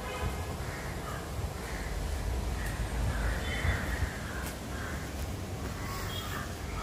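Birds calling repeatedly, about once or twice a second, over a steady low rumble.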